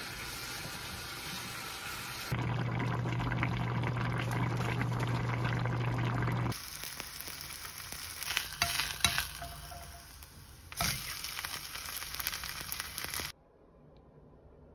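Food sizzling as it is stir-fried with a wooden spatula in a saucepan, then a green-onion pancake sizzling in a frying pan, in a few short cuts. A steady low hum runs through one stretch, a few sharp clicks come about nine seconds in, and the frying stops suddenly near the end.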